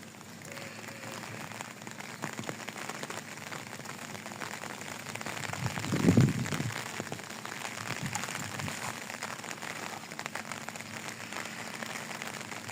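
Light drizzle: a steady patter of fine raindrops, with one short low rumble about six seconds in.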